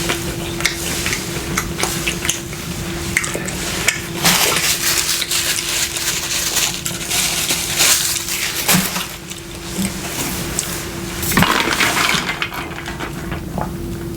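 Close-up eating sounds from a mukbang: crunching and chewing, with clicks and clatter of handling food and utensils, loudest in bursts about 4, 8 and 11 seconds in. A steady low hum runs underneath.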